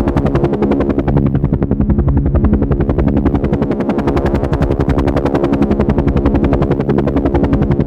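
Helicopter flying: the rotor blades make a rapid, even chopping beat over a steady low engine hum.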